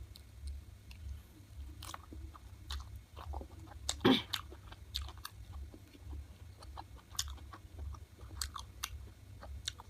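Close-up mouth sounds of a person chewing and biting into cooked chicken, with many short wet clicks and a louder crunchy bite about four seconds in, over a steady low hum.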